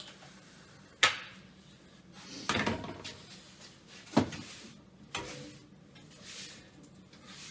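Knocks and clunks of tools and boxes being handled and set down: a sharp knock about a second in, a scraping rustle a little later, then two more knocks around four and five seconds in.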